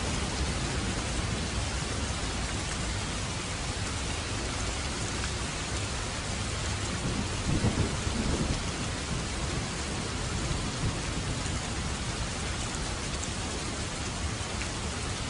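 Steady rain falling, with a brief low rumble of thunder about halfway through.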